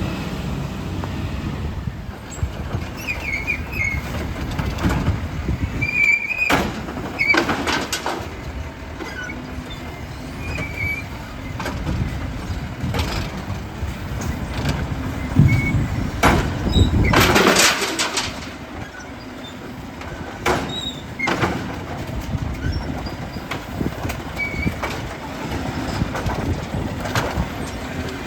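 Garbage truck engine running under a steady rumble, with several sharp clanks and, about two-thirds of the way through, a loud crash lasting over a second, typical of glass being tipped into the truck's body.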